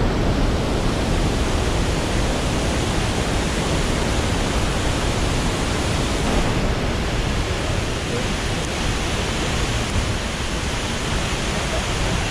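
A steady rush of water, an even noisy roar spread across the whole range.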